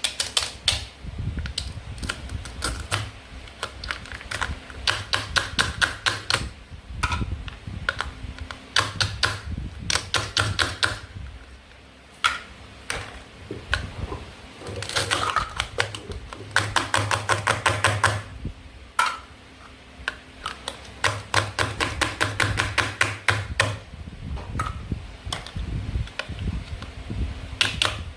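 Toy play-food being cut with a toy knife: runs of rapid, sharp plastic clicks and taps, several a second, coming in short bursts with brief pauses between.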